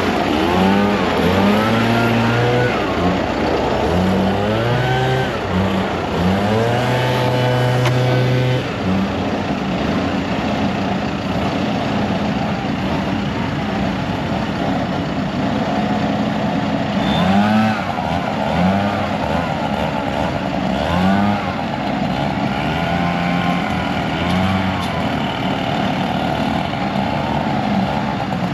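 Engine of heavy tree-removal machinery running under load. Its pitch steps up and down repeatedly as the machine is worked, with changes coming every second or so.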